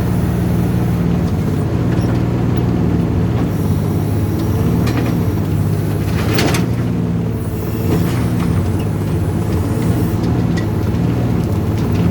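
Volvo mini excavator's diesel engine running steadily, its pitch dipping briefly several times as it takes load from the digging hydraulics. A short scraping clatter comes about six and a half seconds in.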